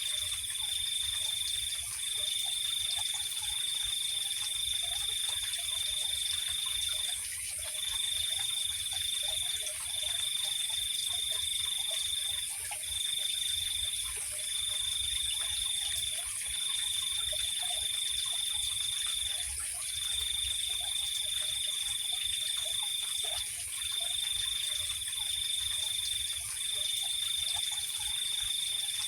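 Night insects and frogs calling together: one high, steady trill breaks off briefly every two to five seconds over a higher, unbroken whine, with faint short frog calls scattered underneath.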